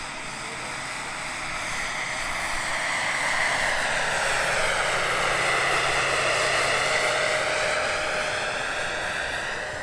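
Turbine whine of a giant model Bell 412 helicopter's Jakadofsky 5000 turbine as it flies past, swelling toward the middle and easing off near the end.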